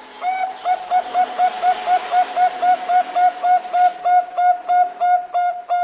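Zebra dove (perkutut bangkok) cooing: a fast run of short, clipped coo notes at about four a second, with a longer drawn-out note beginning at the very end. A steady hiss runs behind the notes.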